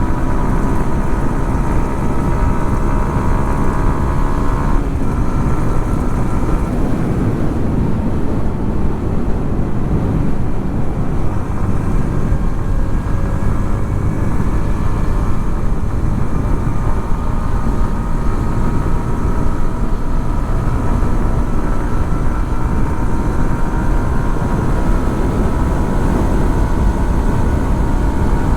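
Yamaha XSR 155's single-cylinder engine running steadily with no sharp revs, a loud even drone with a faint higher whine over it.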